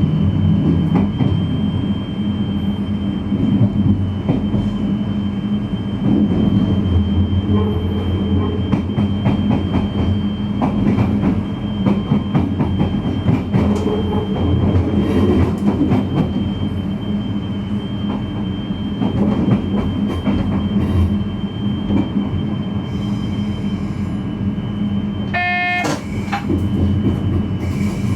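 VIRM double-deck electric intercity train running, heard from the driver's cab: a steady traction hum with many clicks and knocks from the wheels over rail joints and points. Near the end comes a brief pitched tone.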